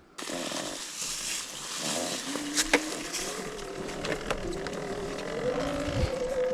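Electric dirt bike riding over rough ground: the motor's whine comes in about two seconds in and climbs slowly in pitch as the bike speeds up, over a steady hiss of wind and tyres, with a few sharp knocks from the terrain.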